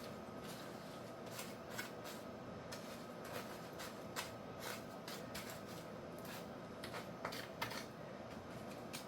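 Wet concrete being worked into small patches with a hand tool: a run of irregular short scrapes and light clicks, over a faint steady hum.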